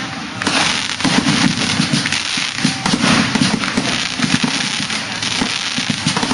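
Fireworks going off in a dense, unbroken run of rapid pops and bangs.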